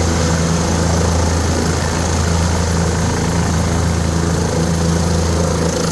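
Helicopter running steadily: a constant low hum with a faint high whine above it, typical of a helicopter idling on the ground after landing.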